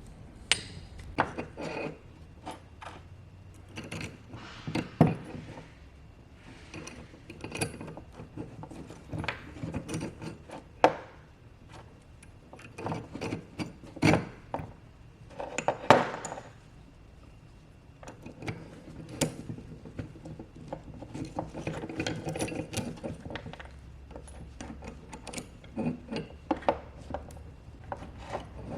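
Workshop handling sounds: irregular clicks, knocks and scrapes of parts and hand tools being worked during assembly, with a few louder knocks spread through.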